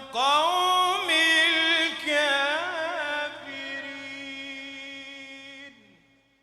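Melodic Quranic recitation by a solo voice, with ornamented pitch turns, then one long held note that fades out about six seconds in.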